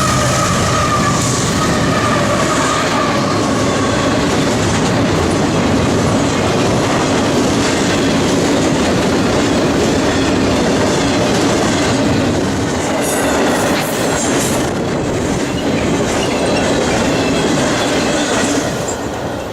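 Train rolling past close by: a steady loud rumble of wheels on rail with clickety-clack over rail joints and some wheel squeal. A fading tone is heard in the first few seconds, and the sound drops off near the end.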